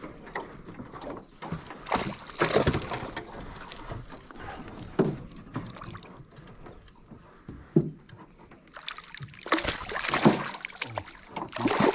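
Irregular water splashes and knocks around a small jon boat as a bass is played and landed, in separate bursts a few seconds apart.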